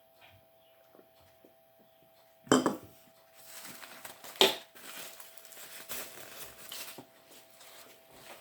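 Dishes and cutlery being handled: a loud knock about two and a half seconds in, a sharp clink a couple of seconds later, then more clattering and rustling with a few clicks.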